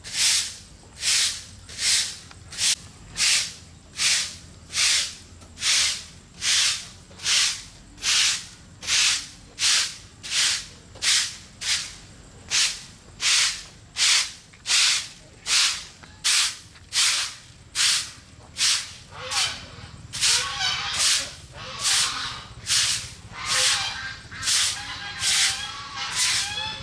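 Rhythmic swishing strokes, about two a second, keeping an even pace throughout. A voice joins faintly in the last few seconds.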